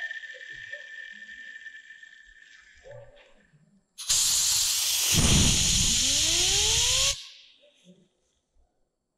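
A blast of compressed air hissing for about three seconds, starting and stopping abruptly, with a rising whine inside it as a part spins up in the airflow. Before it, a high ringing tone fades away, with a few light knocks.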